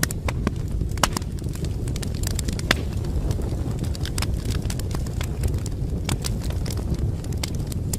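Wood fire crackling: frequent sharp pops and snaps over a steady low rumble of burning flames, with the loudest pops about a second in and near three seconds in.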